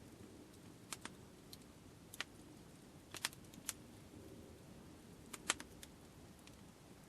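Campfire wood crackling: scattered, irregular sharp pops and snaps, the loudest about five and a half seconds in.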